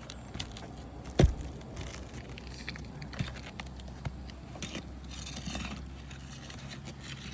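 Hand tools working on asphalt roof shingles while nails are pulled: one sharp knock about a second in, then light scattered clicks and a brief scrape.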